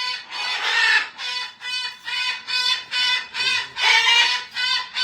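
A parrot calling over and over in harsh, raspy squawks, about three a second. Two longer, louder squawks come about a second in and about four seconds in.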